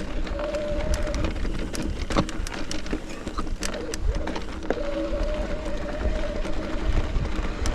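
Mountain bike ridden over a rocky trail: wind rumble on the helmet microphone, with frequent rattles and knocks from the bike and tyres over rock. A steady buzzing tone comes in twice, near the start and again past the middle.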